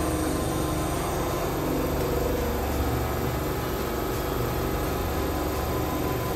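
Tokyu 1000N-series electric commuter train standing stopped at the platform, giving off a steady low hum.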